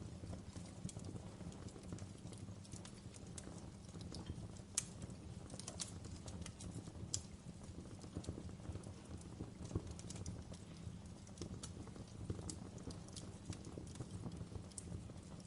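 Wood fire crackling in a fireplace: irregular sharp pops and snaps over a steady low rumble, with a louder pop about five seconds in.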